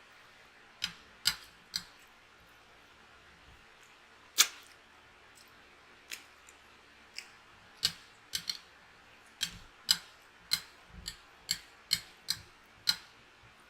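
Close-up eating sounds: a string of sharp, short mouth clicks and smacks from chewing, irregular and coming closer together in the second half.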